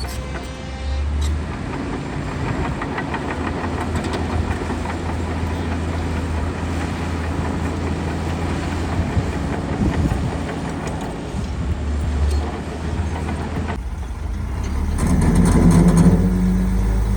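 Heavy diesel earthmoving machinery running steadily, with scattered metallic clanks and rattles. Near the end the sound changes to a louder, deeper engine note.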